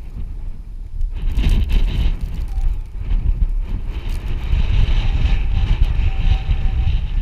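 Honda Tornado trail motorcycle engine running under way, with heavy wind buffeting on the microphone. About a second in, a louder hiss joins and stays.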